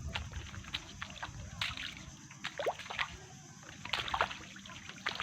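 Footsteps sloshing and splashing through shallow water and mud on a tidal flat, an irregular run of small splashes.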